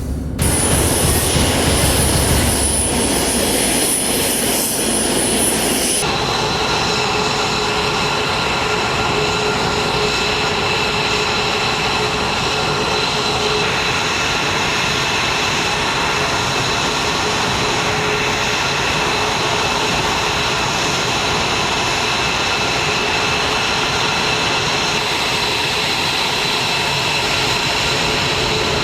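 Jet engine running steadily: a loud, even noise with high whining tones. About six seconds in it changes abruptly to a different steady engine noise with several steady whine tones.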